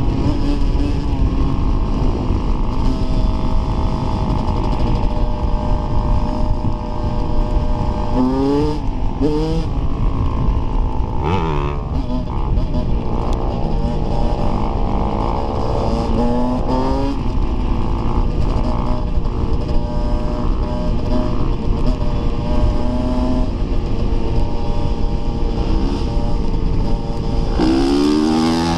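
Dirt bike engine being ridden hard on a trail, its pitch rising as it revs and dropping as it shifts, several times over, under a constant heavy rumble.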